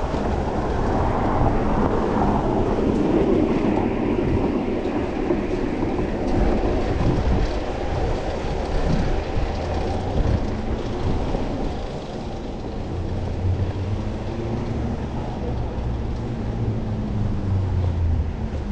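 Wind rushing over the microphone and city traffic rumbling while riding a bicycle. Past the middle, a low steady engine hum from a nearby motor vehicle comes in.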